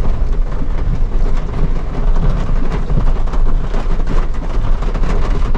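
Suzuki Jimny 4x4 creeping over rough, uneven ground: a steady low rumble from engine and tyres, with frequent small knocks and rattles.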